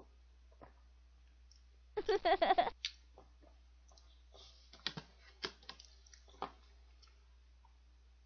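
Mouth sounds of a person chewing soft cake: scattered wet clicks and lip smacks. A short burst of voice about two seconds in is the loudest sound.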